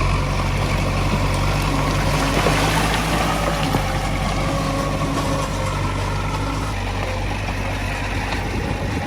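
Diesel engine of heavy earthmoving machinery running steadily at a constant note.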